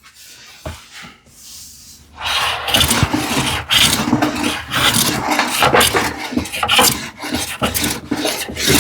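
Hand plane taking repeated strokes over a solid cherry panel: a dense rasping shaving sound that starts about two seconds in, after a couple of light knocks.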